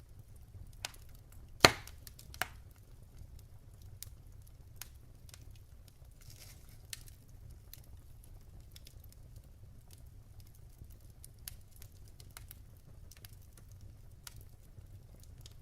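Wood fire crackling in a fireplace: scattered snaps and pops from the burning logs over a low steady rumble of the flames, with one loud pop about a second and a half in and a brief hiss about six seconds in.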